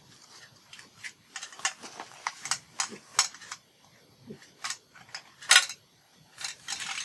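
Paper and crafting supplies being handled on a work table: irregular light clicks, taps and rustles, the sharpest knock about five and a half seconds in.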